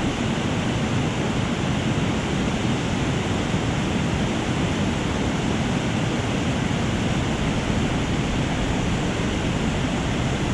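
Steady rushing of white water from a waterfall and fast mountain stream, a constant even hiss with no breaks.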